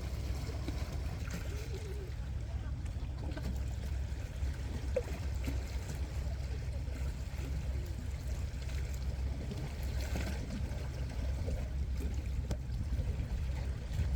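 Seaside ambience by a breakwater: a steady low rumble with water sounds over it.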